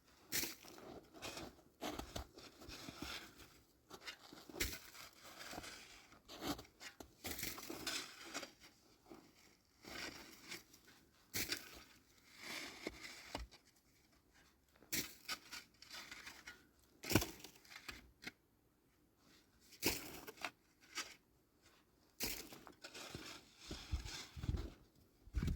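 Plastic sheeting crinkling and tearing in irregular bursts as it is handled, with short quiet gaps between them.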